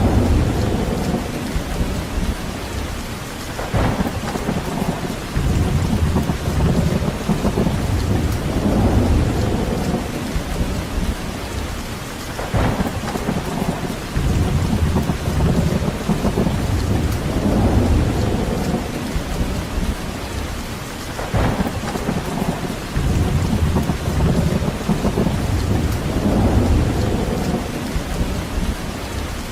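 Steady heavy rain, with a low rumble that swells and fades every few seconds and a short sharp crack about every nine seconds.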